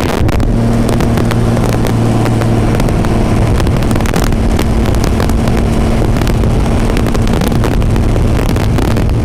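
The Shelby AC Cobra's V12 marine racing engine, taken from a Fountain racing boat, running loud at a steady engine speed, with wind noise over it.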